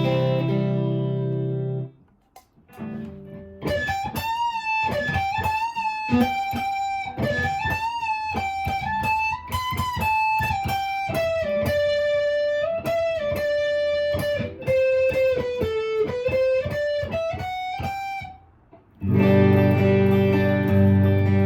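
Clean electric guitar on a Gretsch's neck pickup through a close-miked amp. A chord rings and stops, then after a short pause comes a quick single-note melody line, stepping up and down in pitch, and near the end chords ring out again.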